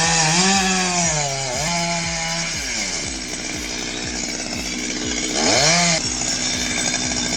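Chainsaw engine revving. The throttle opens just as the sound begins and holds high, drops back to a lower steady note about two and a half seconds in, then gives one short, sharp blip of throttle near the six-second mark.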